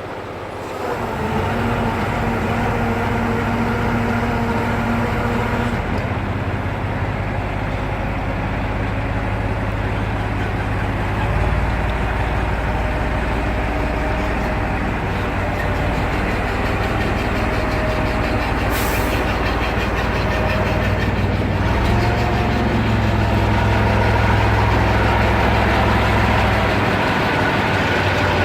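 Heavy diesel engine running under changing load, its pitch stepping up and down several times. A short hiss comes about 19 seconds in.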